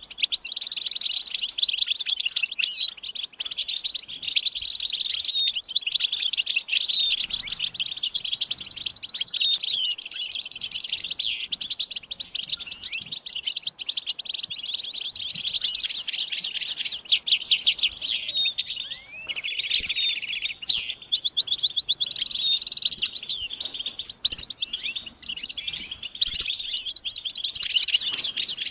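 European goldfinches chattering and singing together in a continuous stream of twittering notes, with fast rattling trills around the middle and again near the end. This is a group chatter of the kind used to stir a male goldfinch into song.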